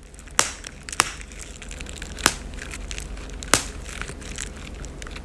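Dry, brittle material crunching and crinkling as it is crushed or crumpled, with several sharp cracks.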